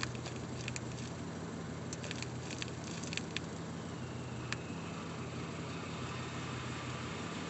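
Steady low hum of a car engine idling, heard from inside the cabin, with a scatter of light clicks and taps in the first half.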